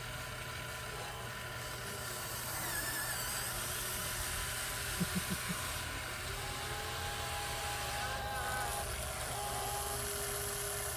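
Radio-controlled scale trucks running: a steady motor and gear whine over a noisy bed, with thin tones that come and go, and four quick short beeps about five seconds in.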